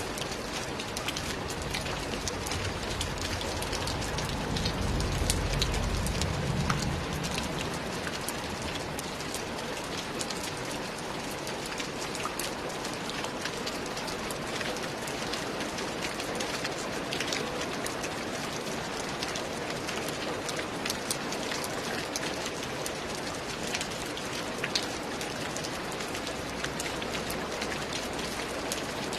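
Steady rain falling on a roof, with many individual drops ticking through the hiss. A low rumble swells and fades about five seconds in.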